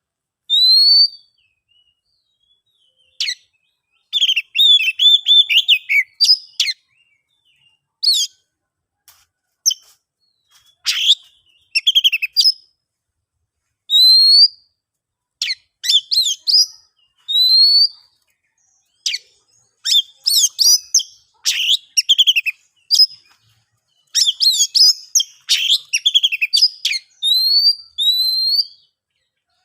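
Oriental magpie-robin (kacer) singing in a loud, full-voiced 'ngeplong' style. Clean upward-sliding whistles come again and again between quick, varied chattering phrases with sharp clicks, and short silent gaps separate the phrases.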